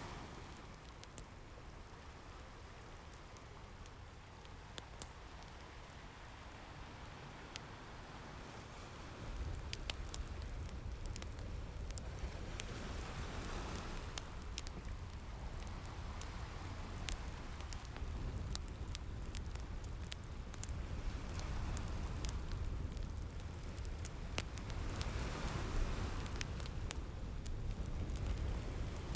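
Wood fire crackling with sharp, scattered pops, layered over ocean waves washing in and out in slow swells about every twelve seconds. A steady low rumble joins about a third of the way through.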